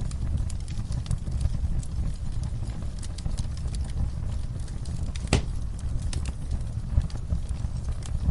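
Wood fire crackling in a fireplace: a steady low rumble of flames with scattered sharp crackles and one louder pop a little after five seconds in.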